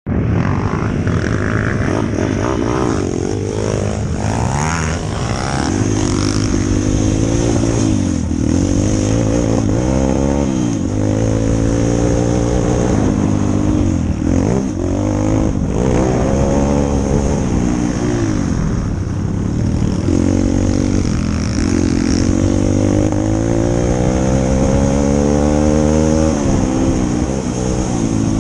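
140cc single-cylinder four-stroke pit bike engine being ridden, its revs climbing and dropping over and over as the throttle is opened and closed through the gears.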